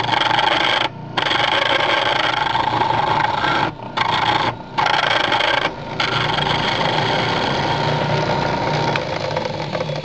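A hand chisel scraping and cutting wood spinning on a homemade benchtop lathe driven by a salvaged sump pump motor. The cut is a steady rasping broken by a few short gaps in the first half, where the sound drops away for a moment.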